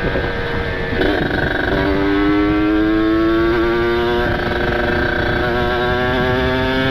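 Kawasaki Ninja RR two-stroke single with a ported engine and aftermarket exhaust, pulling under throttle. After a shift about a second in, the engine note climbs slowly and steadily.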